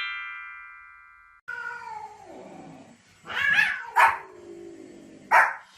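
A ringing, chime-like transition sting fades out. Then a dog gives a long whine that falls in pitch, followed by a few loud barks.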